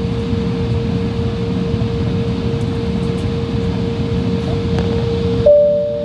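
Steady airliner cabin noise: a low rumble with a constant hum from the jet's engines and air system. About five and a half seconds in, the sound changes abruptly and the hum steps slightly higher in pitch.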